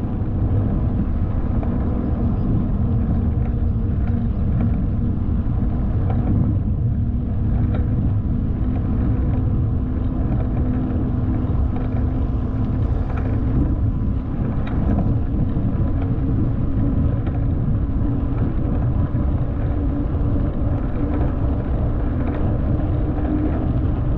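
Steady rumbling noise from riding a bicycle along a path: wind on the microphone and tyre noise, strongest at the low end, with no distinct events.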